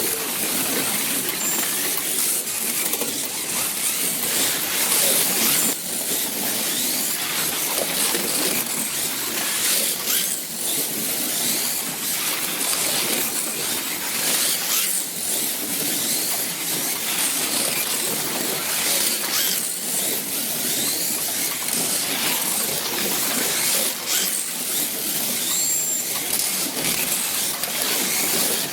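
Several plastic-chassis slot cars lapping a wooden routed track: a steady high whirring hiss of small electric motors, gears and tyres, with brief rising whines as the cars accelerate.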